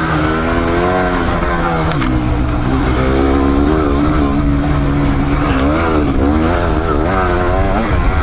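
Single-cylinder dual-sport motorcycle engine running on a trail ride, its revs repeatedly rising and falling as the throttle is worked.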